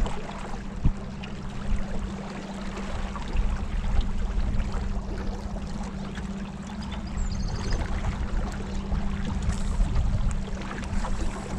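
Water splashing and lapping around a kayak on the river, with scattered small splashes and a steady low hum underneath.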